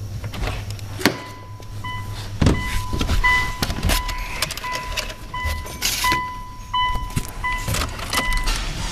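Dodge Stratus coupe's 2.4-litre Mitsubishi 4G64 four-cylinder petrol engine as a low hum, with a steady high tone that keeps breaking off and coming back, and many short clicks and knocks over it.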